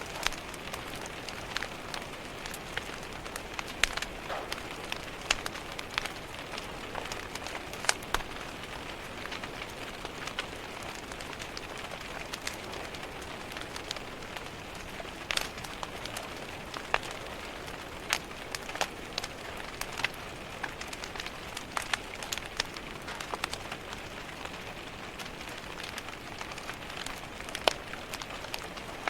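Steady rain pattering against a window, with a wood fire's crackle and pops scattered irregularly through it.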